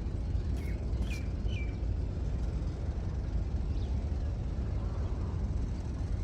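A steady low rumble with a few short, high bird chirps: three quick falling chirps come about a second in, and a fainter one near the four-second mark.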